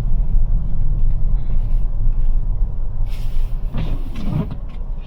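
Low rumble of a Toyota RAV4 Prime rolling on Blizzak snow tires through snow, heard from inside the cabin, getting quieter as the car slows, with a brief scraping noise about four seconds in.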